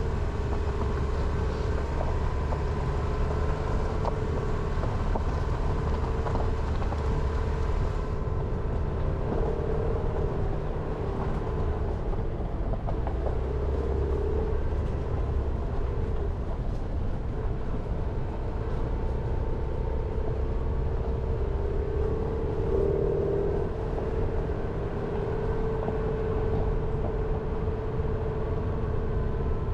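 Jeep Renegade driving along a mountain forest road: steady engine and tyre noise with a low rumble, and an engine hum that swells and eases a few times as the speed changes.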